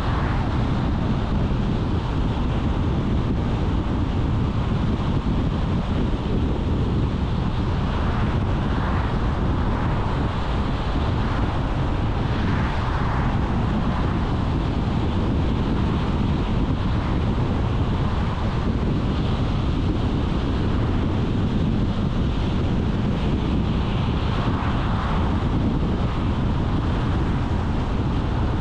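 Steady road noise of a car driving along: tyre rumble and wind, with a few soft swells.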